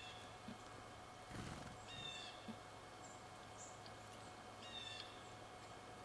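A small bird calling faintly: a short, thin, flat high note given three times, about every two and a half seconds. A brief soft low rustle comes about a second and a half in, over a faint steady hum.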